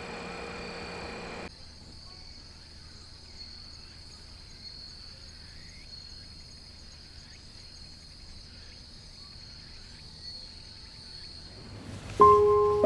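Insects chirring in a steady, high-pitched, even drone. The chirring follows a louder, rumbling hum that cuts off abruptly about a second and a half in. Piano music comes in loudly near the end.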